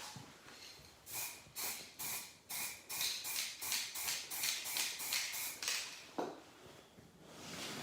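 Aerosol spray-paint can being shaken, its mixing ball rattling in quick strokes, about fourteen in all and speeding up. A single knock follows, then a spray hiss builds near the end.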